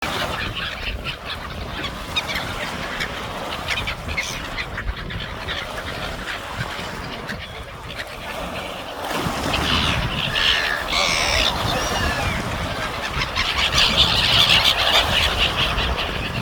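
Gulls calling and squabbling over food, a string of harsh, repeated calls that grow louder in the second half, over a steady low background noise.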